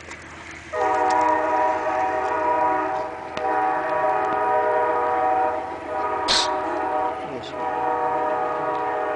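Locomotive multi-note air horn sounding a chord in a long, long, short, long pattern, the standard grade-crossing warning signal, starting about a second in. A sharp knock breaks in just before the short blast.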